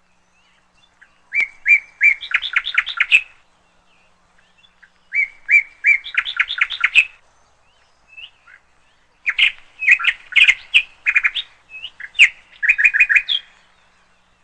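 Domestic canary singing: three phrases of sharp chirps that speed into rapid trills, each lasting about two to four seconds, with short pauses between them.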